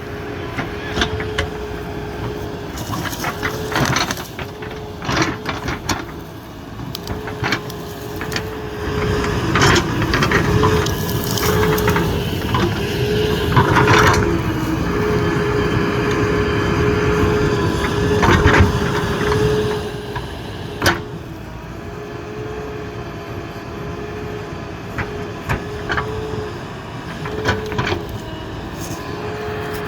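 JCB 3DX backhoe loader's diesel engine running steadily with a high hum that dips briefly now and then as the machine works, with scattered knocks and clatter. The low rumble grows heavier for several seconds in the middle.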